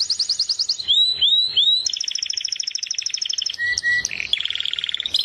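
Bird chirping in fast, even trills of about a dozen notes a second, broken about a second in by three rising whistles, with the trill changing pitch and pattern every second or so.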